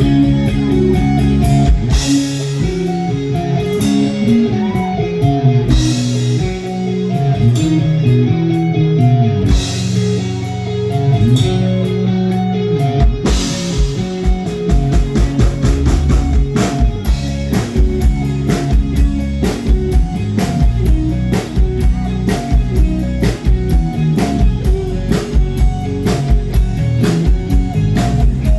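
Live rock band playing guitar and drums. Held chords with a cymbal crash every few seconds build up, then about halfway through the drums settle into a steady beat.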